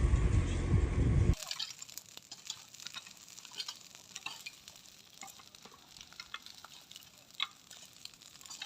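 A loud, low engine rumble cuts off about a second in. After it comes a quieter, irregular crackling and sizzling, typical of smouldering forest-floor debris after a forest fire.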